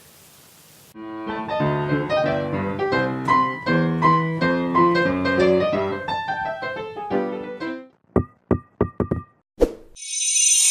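Piano music: a short melody with chords starts about a second in and ends about eight seconds in. A few short separate notes follow, then a brief bright shimmering sound near the end.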